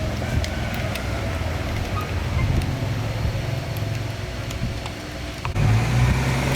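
Low, steady rumble of passing motor vehicles, growing louder about five and a half seconds in, with a few faint clicks.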